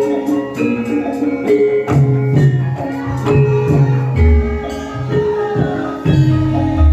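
Live Javanese gamelan-style music: ringing struck metallophone notes over a steady drum pattern, with deep drum booms in the second half.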